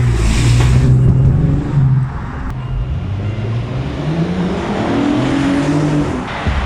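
Exhaust note of a VW Touareg's 3.6 FSI VR6 engine through a modified stock exhaust, running under throttle, with the pitch dropping after about two seconds and climbing again around four seconds in.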